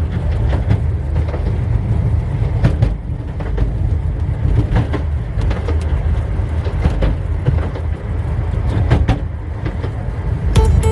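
Miniature railway train running along the track: a steady low rumble with scattered clicks of the wheels over the rail joints.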